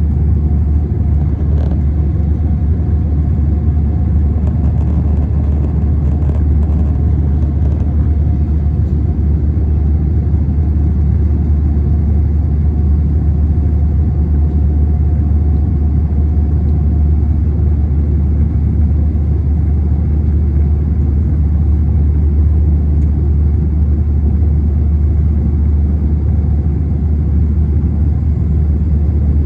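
Steady, loud cabin rumble inside an Airbus A321 in flight: the engines and airflow give a deep, even roar, with a faint steady hum in the first half.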